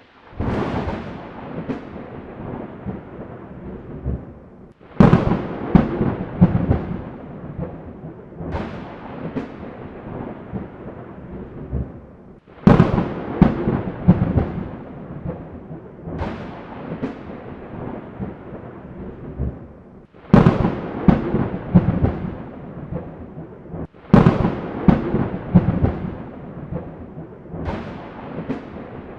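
Thunderstorm: sharp thunder cracks, each rolling off into a long rumble, come about every four seconds over a steady hiss of rain. Several of the claps begin abruptly, right after a brief drop-out.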